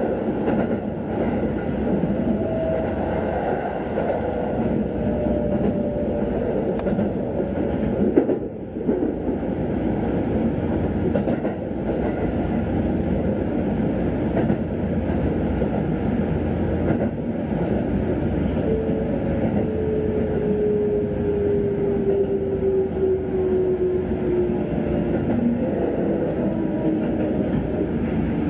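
Sanyo Electric Railway electric train running, heard from inside the carriage: a steady noise of wheels on rail. There is one sharp knock about eight seconds in, and in the second half a thin whine slowly falls in pitch.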